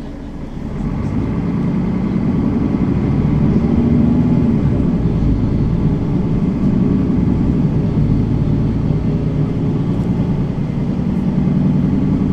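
Mercedes-Benz Citaro facelift city bus engine running, getting louder about a second in as it takes up load, then holding steady.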